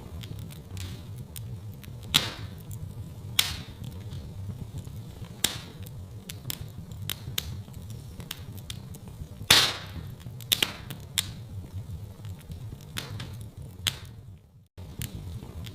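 Wood fire in a fireplace crackling: a steady low rumble under frequent sharp pops and snaps, the loudest pop about two-thirds of the way in. The sound dips briefly to near silence near the end.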